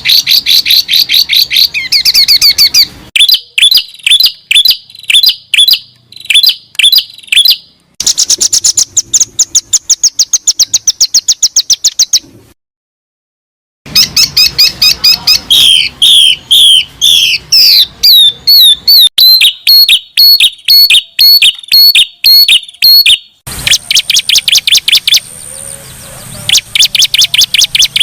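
Songbirds singing in fast runs of sharp, repeated chirps and trills. Several different songs are spliced together, with abrupt brief silences between them, at about 3, 8, 12.5 and 23.5 seconds in.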